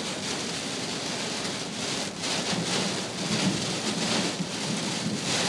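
Heavy downpour pelting a moving car, heard from inside the cabin as a steady rushing noise.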